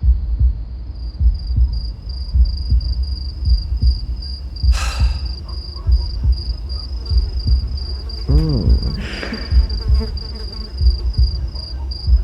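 Cricket chirping in a steady, fast-pulsing high trill over an uneven low rumble. Two short tones swoop up and back down in pitch, one past the middle and one near the end.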